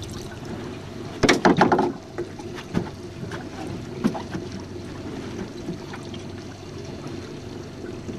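Small jon boat on open water with a steady low hum, a quick cluster of loud knocks about a second in, and a few single knocks after.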